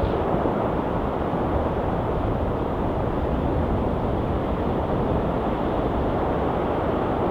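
Sea surf washing steadily on the shore: an even, continuous rush with no single wave breaking out from it.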